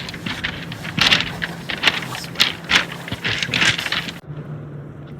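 Footsteps crunching on beach stones and pebbles, about two or three steps a second, stopping about four seconds in. A steady low hum sits under them.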